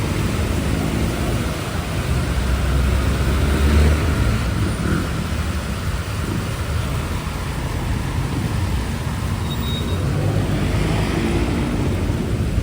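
Street traffic: vehicle engines running low and steady as cars and buses pass close by, over a constant hiss.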